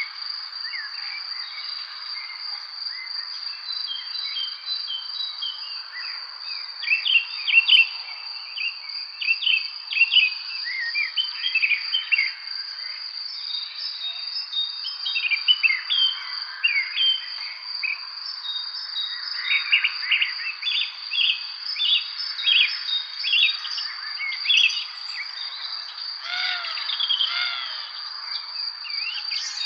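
Evening spring birdsong: many birds chirping and singing in short, quick phrases, with clusters of calls throughout. Under them runs a steady, unbroken high-pitched insect trill.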